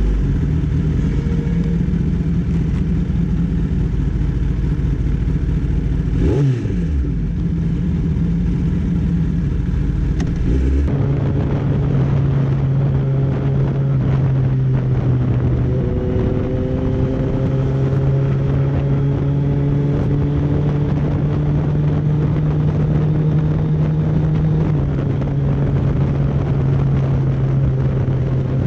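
Motorcycle engine running at steady revs while riding. About six seconds in a passing vehicle sweeps down in pitch. Around eleven seconds the sound changes abruptly to a steadier, lower engine note, which shifts slightly a few times.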